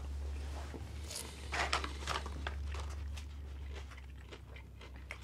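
Popcorn being crunched and chewed by mouth: an irregular scatter of short crunches, thickest in the middle, over a low steady hum.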